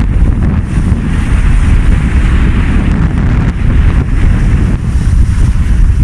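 Strong wind buffeting the microphone in a steady low rumble, over the rush of water past a sailing yacht under sail.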